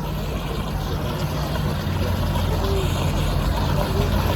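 A steady low engine hum with an even rushing noise over it, slowly getting louder.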